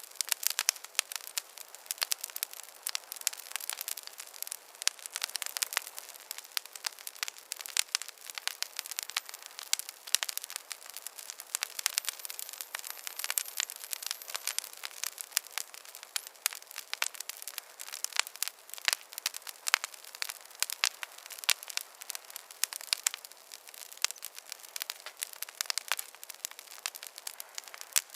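Wood fire crackling: a dense, irregular run of sharp pops and snaps over a soft hiss, with no low rumble.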